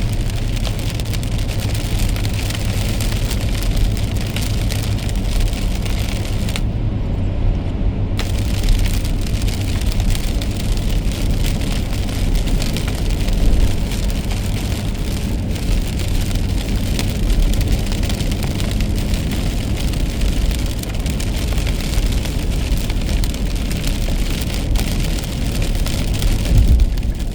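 Car driving in the rain: a steady low road and engine rumble under a continuous hiss of rain and wet tyres. The hiss drops out for about a second and a half some seven seconds in, and there is a low thump near the end.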